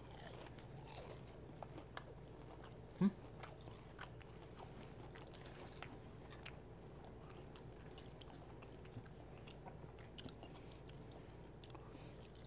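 A person chewing a crispy crinkle-cut french fry dipped in a creamy sauce: faint, scattered crunching clicks, with one louder short low sound about three seconds in.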